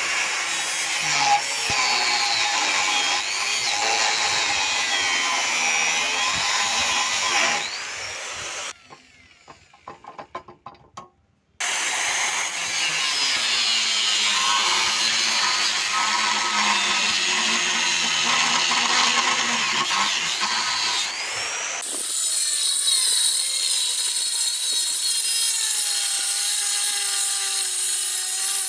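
Power tools working metal parts for a tractor trolley hitch, running loud and steady with a bending whine. About nine seconds in the tool stops for a couple of seconds, leaving scattered clicks, then starts again; about two-thirds of the way through the sound changes to a higher hiss with a slowly falling whine.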